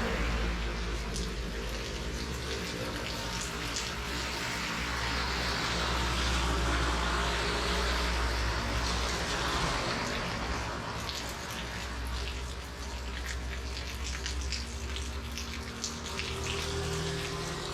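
Steady rain falling, with scattered sharp drips and splashes over a continuous hiss and a low rumble underneath.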